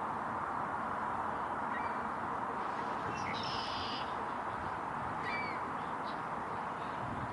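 A few short bird calls, one a brief call with several stacked tones about three seconds in, over a steady rushing background noise.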